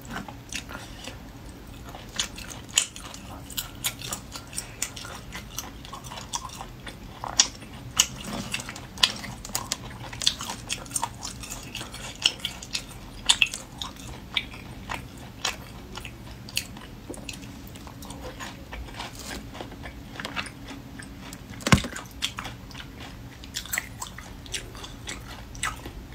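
Close-miked eating of sauce-braised snails: chewing and wet mouth sounds with irregular sharp clicks and smacks, one louder knock about four-fifths of the way through.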